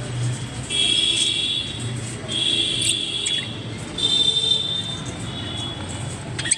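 Budgerigars chattering: four buzzy, high-pitched stretches of about a second each, over a steady low hum.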